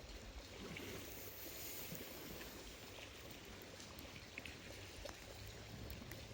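Steady surf and wind noise at the seashore, with a few faint scattered ticks.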